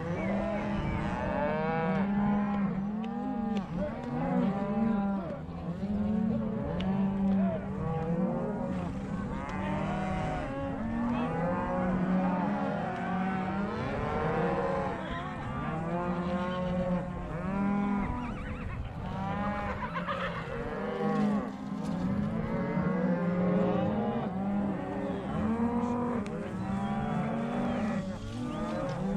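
A large herd of cattle mooing and bawling, many calls overlapping without a break.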